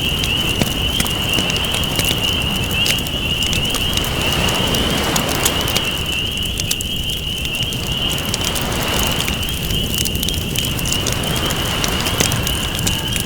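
Wood campfire crackling with sharp pops, over ocean waves washing in and out as a rushing noise that swells and fades every few seconds. A steady high-pitched trill runs underneath.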